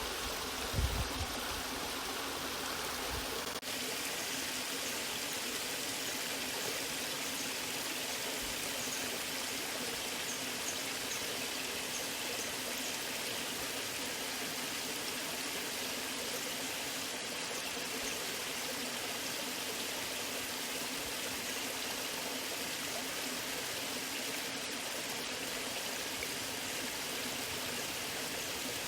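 Waterfall water rushing and splashing in a steady, even stream, with a low rumble in the first few seconds that falls away about three and a half seconds in.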